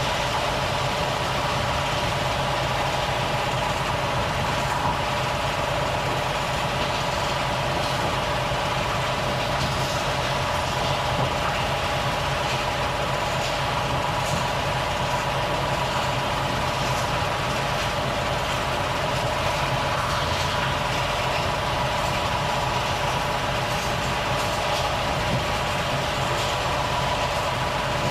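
Volvo FH truck's diesel engine running steadily at an even pitch, with no change in speed or load.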